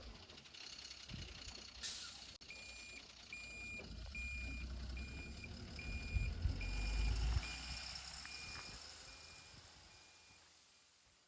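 A vehicle's reversing alarm beeping steadily, about three beeps every two seconds and growing fainter toward the end, over the low rumble of a heavy diesel engine that grows louder in the middle.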